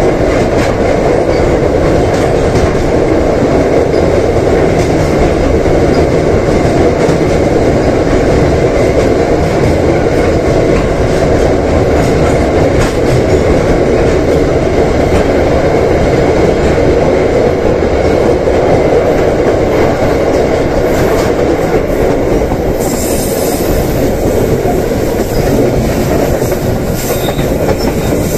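Argo Parahyangan passenger train running inside a tunnel, heard from inside the coach by the window: a loud, steady rumble of wheels on rails. A brighter high hiss joins it about 23 seconds in.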